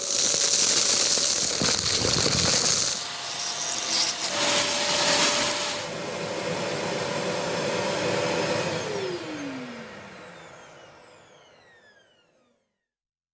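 Kärcher vacuum cleaner running with a steady motor whine and rushing suction, then switched off about nine seconds in: the whine falls in pitch and fades as the motor winds down.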